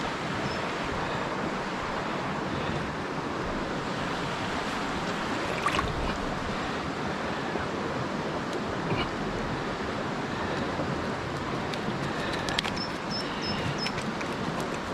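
Small river's water running steadily over shallows, a continuous rushing.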